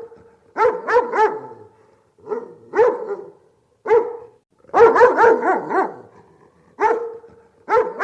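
A dog barking repeatedly, in quick runs of one to four barks with short pauses between.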